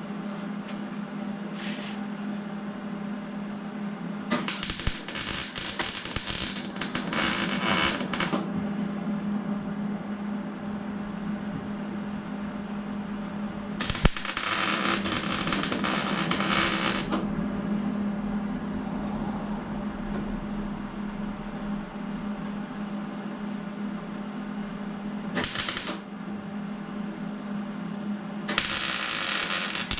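Four bursts of crackling, sputtering electric arc welding on steel square tubing, the longest lasting about three to four seconds and one only half a second, over a steady low hum.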